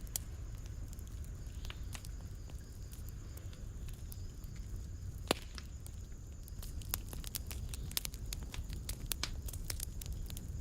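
Wood fire crackling in a fireplace: a steady low rumble of the flames with scattered sharp pops. One louder pop comes about five seconds in, and the pops come more often over the last few seconds.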